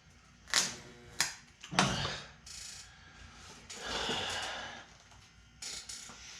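Stud welder gun firing three short, sharp snaps about half a second apart, then a longer scraping noise about four seconds in. The copper pull studs fail to weld because the panel is still painted.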